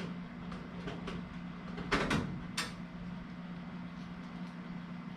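Several short knocks and scrapes from handling during the duct work, the loudest cluster about two seconds in, over a steady low hum.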